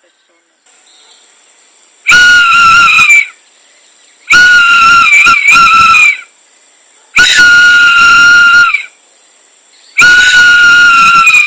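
Four long, loud whistle blasts, each held at one steady high pitch for one to two seconds.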